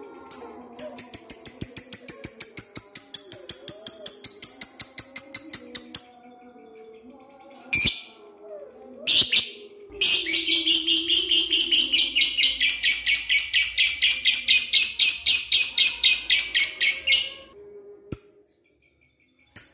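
Lovebird ngekek: a long, fast, evenly repeated high chattering trill in two bouts, about five and seven seconds long, with a couple of short sharp calls between them.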